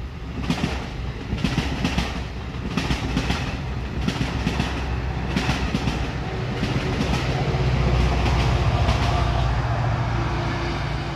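NJ Transit commuter train of Multilevel coaches passing, its wheels clacking in clusters over rail joints. Later a louder, steadier deep rumble builds as the locomotive at the rear of the train comes by.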